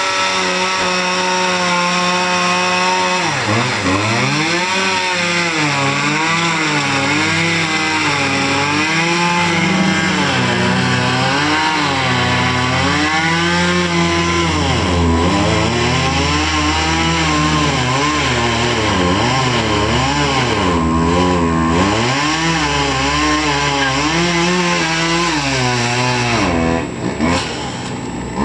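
Chainsaw running at a steady high speed for about three seconds, then cutting. Its engine pitch repeatedly sags and picks up again as the chain bogs in the wood, with a short dip near the end.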